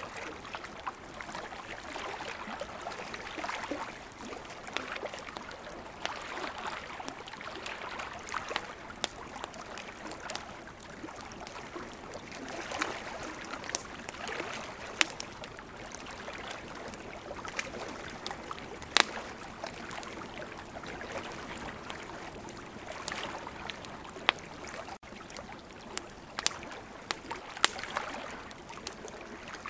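Wood campfire crackling, with many sharp pops, a few much louder than the rest. Behind it, ocean waves wash in a hiss that swells and fades every few seconds.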